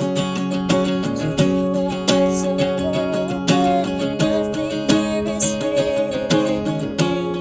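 Acoustic guitar strumming chords in a steady rhythm, an instrumental passage of a worship song.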